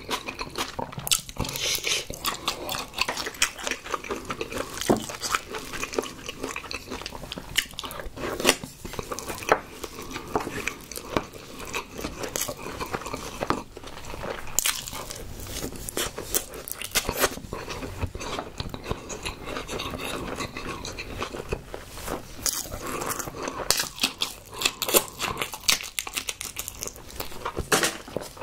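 A person chewing and biting with many wet, smacking mouth clicks while eating raw soy-marinated shrimp and rice.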